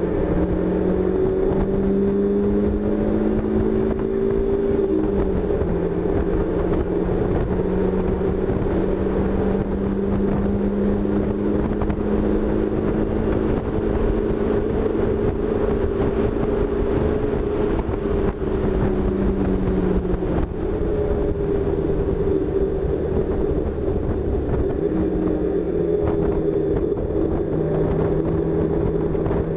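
1999 NB Mazda Miata's 1.8-litre four-cylinder engine pulling hard at high revs on track, heard from inside the open cockpit with wind and tyre noise. The pitch dips slightly about five seconds in, drops more clearly about twenty seconds in, then climbs again.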